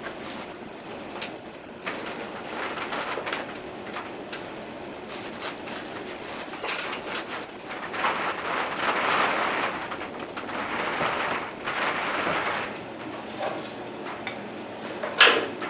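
Hand-work noises: rustling, with scattered clicks and taps, and a sharp knock near the end.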